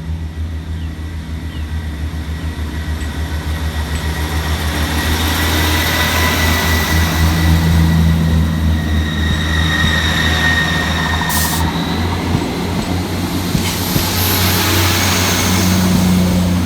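Two coupled ScotRail Class 158 diesel multiple units pulling away from the platform, their underfloor diesel engines running under power with a low pulsing drone that grows louder. A thin squeal comes from the wheels or brakes through the middle, and there is a brief hiss about eleven seconds in.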